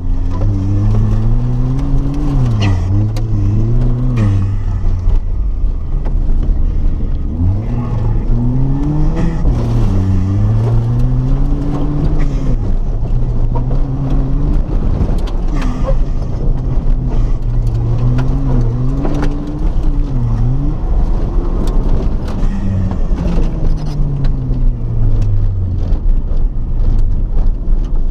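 Rallycross car's engine revving up and falling back again and again as the car is driven hard around a dirt course, over steady road and gravel noise.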